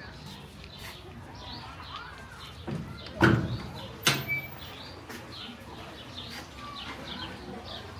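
Small birds chirping over and over, with two sharp knocks about three and four seconds in.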